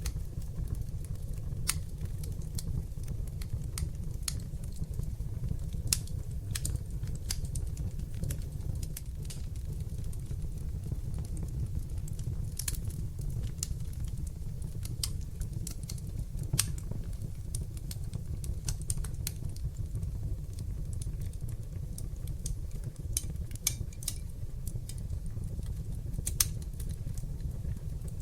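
Wood fire burning in a fireplace: a steady low rush of flames under irregular crackling, with three louder pops spread through.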